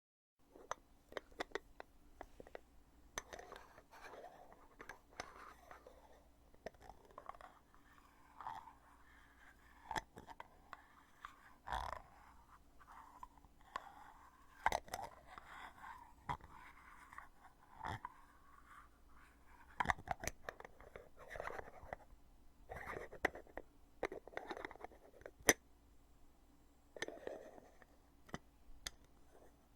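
Lid of a cosmetic foundation container being opened and closed up close, a hollow plastic case that snaps and clicks shut. Sharp clicks come at irregular intervals with soft rubbing and scraping between them. The loudest snap is near the end.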